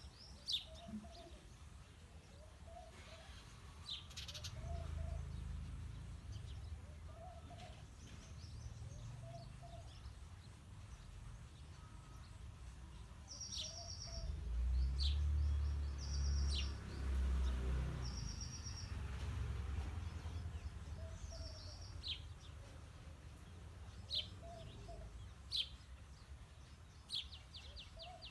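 House sparrows chirping: short, sharp chirps every second or two, with a few quick rattling runs of notes, one of them near the end. A soft low call repeats about every second and a half underneath, and a low rumble swells up through the middle.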